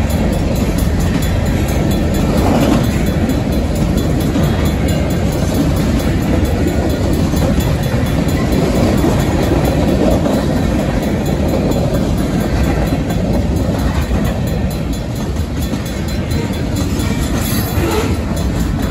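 Freight train of covered hopper cars rolling past, steel wheels running on the rails with a steady noise.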